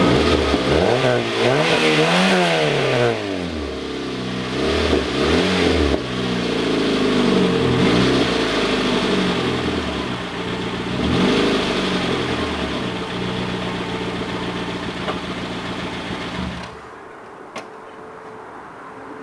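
Peugeot 206 with a Scorpion aftermarket exhaust, revved in several blips that rise and fall, then settling back to a steadier note. The engine sound cuts off near the end.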